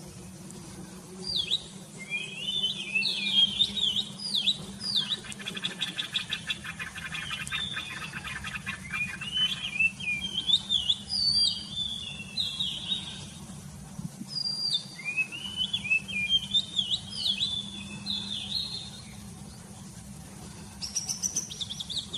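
Songbirds singing in the morning: repeated short chirps and warbled phrases, with a fast rattling trill for several seconds near the start and a brief lull shortly before the end.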